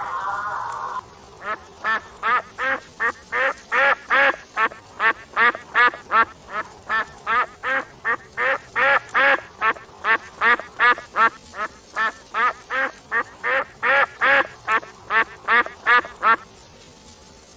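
Domestic duck quacking in a long, steady run of short quacks, about three a second, stopping shortly before the end. It follows the tail of a drawn-out animal call that ends about a second in.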